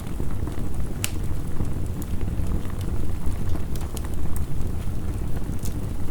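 Wood fire crackling, with scattered sharp pops, over a steady low rushing of heavy rain.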